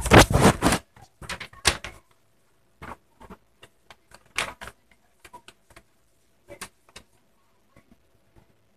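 A sheet of white paper being folded and creased by hand: a loud rustle in the first second, then scattered short crinkles and rustles as the fold is pressed down.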